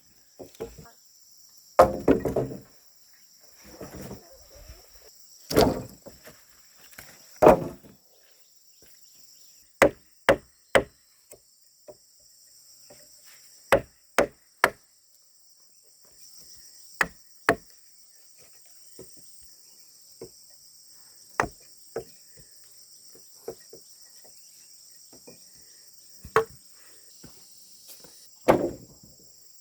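Irregular sharp knocks of tool blows, several in quick pairs or threes, with a few heavier strikes, over a steady high chirring of insects.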